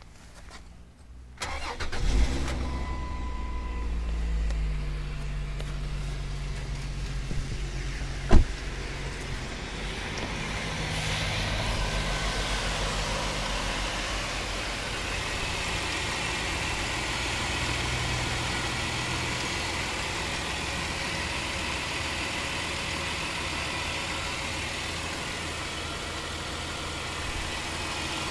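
Chrysler 300M's 3.5 L V6 cranking and starting about two seconds in, then running steadily; this is the engine with the knocking noise. One sharp, loud thump about eight seconds in.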